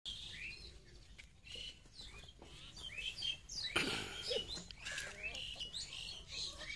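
Birds chirping: many short, falling chirps one after another, with a brief loud scratchy burst a little past halfway.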